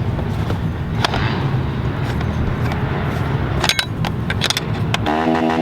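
Low rumble with a few sharp clicks, then about five seconds in a pitbike engine comes in close by, running steadily.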